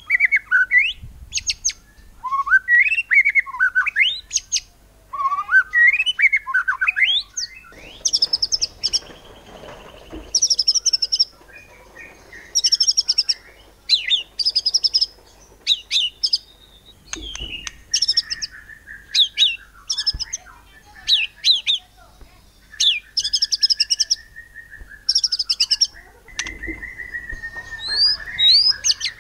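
White-rumped shama singing: short, rapid, high stuttering bursts repeated about once a second, mixed with lower sweeping whistles, and a long wavering whistle in the second half.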